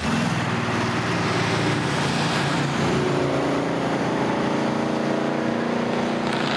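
Muscle cars cruising slowly past in a line, their engines running with a steady low drone that begins abruptly.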